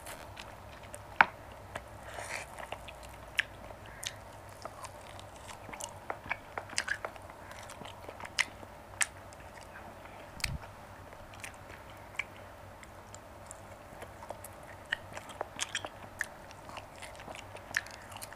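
Close-miked mouth sounds of a person biting and chewing grilled marinated mutton: scattered sharp clicks and smacks at an irregular pace, over a faint steady hum.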